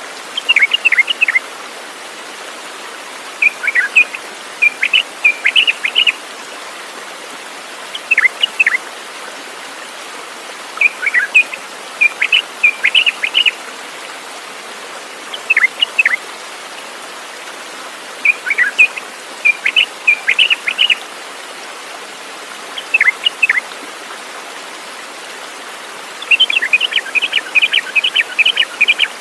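A songbird singing short phrases of quick, high, downward-sweeping chirps, repeated every two to three seconds, with a faster run of notes near the end. Under it is a steady even hiss.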